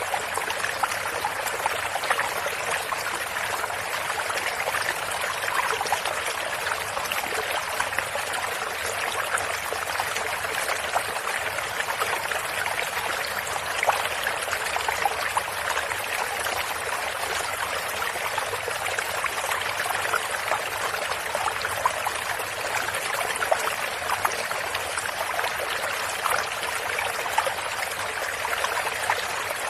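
Small stream flowing steadily over stones, a continuous babbling trickle with little splashes throughout.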